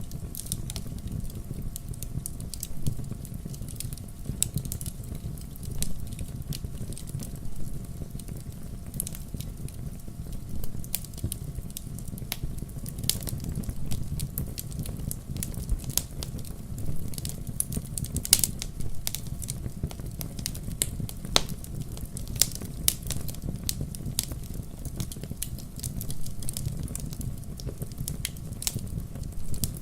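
Wood fire crackling in a fireplace: irregular sharp pops and snaps over a steady low rumble of flame, with one louder crack about two-thirds of the way through.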